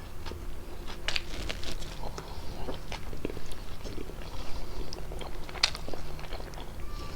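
Close-miked chewing of fettuccine pasta with chicken: an irregular run of short mouth clicks and smacks.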